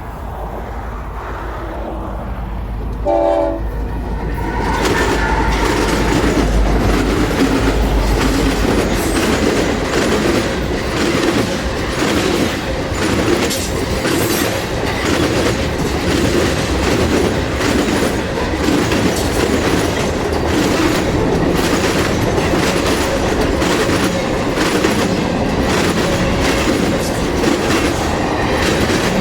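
Freight train headed by three BNSF diesel locomotives passing close by. The locomotives come in with a deep engine rumble and a short horn blast about three seconds in. From about five seconds in the freight cars roll past with a steady clickety-clack of wheels over the rail joints.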